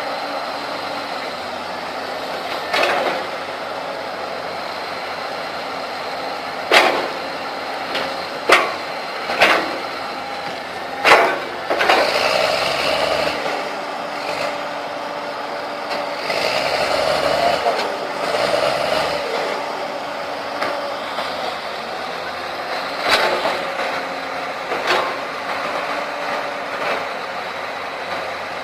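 Heavy tracked machinery, an excavator and a crawler bulldozer, with their diesel engines running steadily and sharp clanks every few seconds. The engine note rises and falls twice near the middle, as under load.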